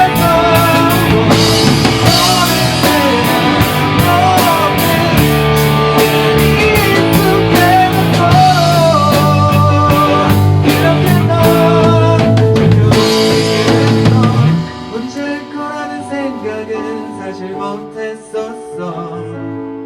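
Rock band playing live in rehearsal, with drum kit, electric guitars and bass loud and driving. About two-thirds of the way in the drums and full band drop out, leaving a quieter passage of sustained keyboard notes.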